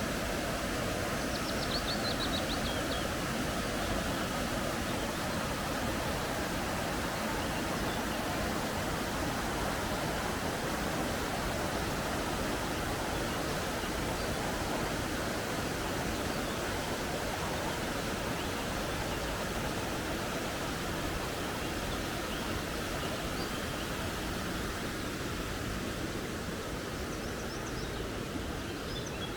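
Steady rushing of a flowing forest creek, with a few faint bird calls about two seconds in and again near the end.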